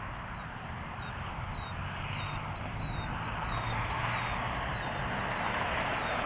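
A bird repeating a short, high, falling chirp about twice a second, over a steady wind-like rush and a low hum.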